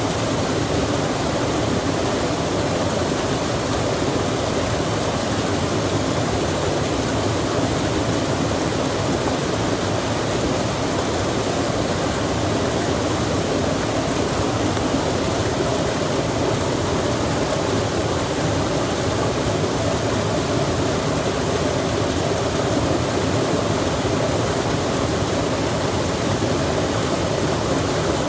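Steady rushing of flowing water, a stream or small waterfall, an even roar that holds unchanged throughout.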